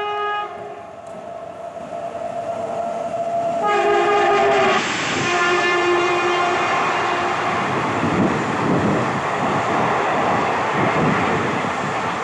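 Express train's locomotive horn: a blast ending just after the start, then a louder blast about four seconds in that drops to a lower note and holds for a few more seconds. From about five seconds in, the coaches rush past at speed with a loud, steady rumble and clatter of wheels on rail.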